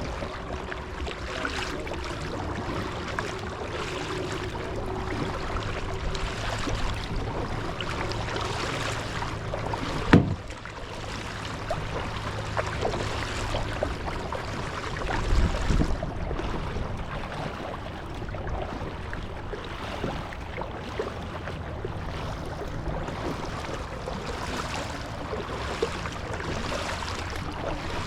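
Water splashing and lapping around a kayak on the move, with a sharp knock about ten seconds in and a dull thump a few seconds later.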